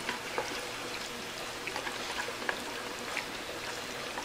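Soft eating sounds of someone chewing fried noodles: scattered small mouth clicks over a steady background hiss.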